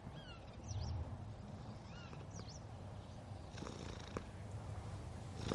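Domestic cat purring: a soft, steady low rumble that swells briefly about a second in.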